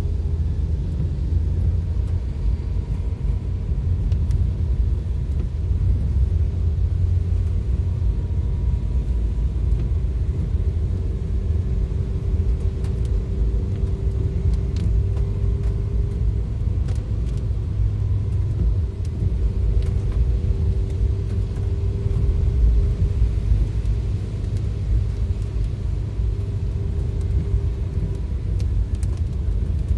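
Steady low rumble of a vehicle driving in heavy rain, with a faint steady hum and scattered light ticks over it.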